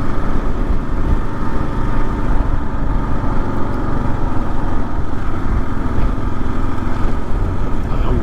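Kawasaki KLR650's single-cylinder engine running steadily while the motorcycle is ridden, mixed with wind and road noise.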